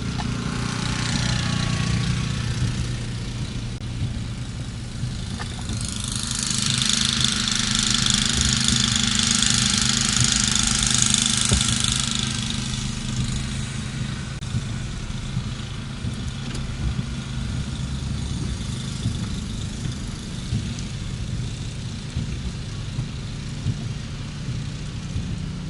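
A truck's engine running steadily, heard from inside the cab, with a louder rushing hiss that swells for about six seconds starting about six seconds in.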